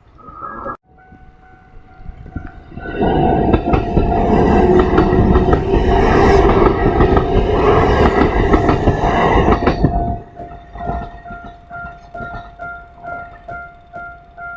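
A Japanese level-crossing bell rings steadily at about two strokes a second while a Kintetsu electric train passes. The train is loud from about three seconds in to about ten seconds in, a dense rush of wheels with clatter over the rail joints. The bell keeps ringing after the train has gone.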